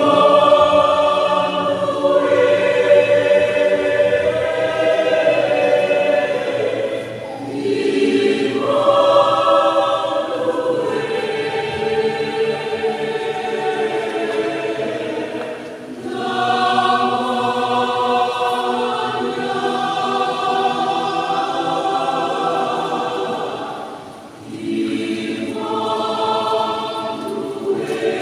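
Youth choir singing in long held phrases, with a short breath between phrases roughly every eight seconds.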